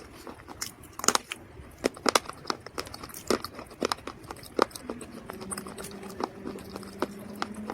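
Dry mud crunching and crumbling close to the microphone in a run of irregular sharp cracks. Near the end a faint steady low hum sounds underneath.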